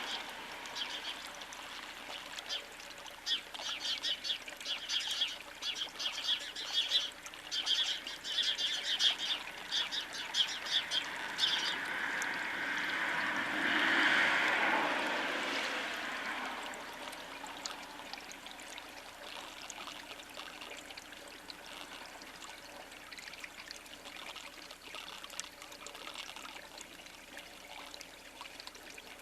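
Small birds at a feeder giving rapid short chirps in clusters for about the first twelve seconds. A rushing noise then swells, peaks about halfway through and fades away.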